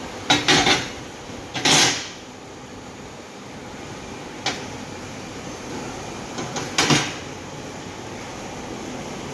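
CNC pipe bending machine at work: a steady machine hum broken by mechanical clunks and knocks. A quick cluster comes about half a second in, a longer one near two seconds, a single click in the middle and another cluster near the end.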